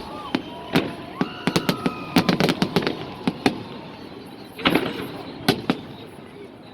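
Fireworks salute: clusters of sharp bangs and crackling pops in quick succession, with a short lull about four seconds in before another burst of bangs.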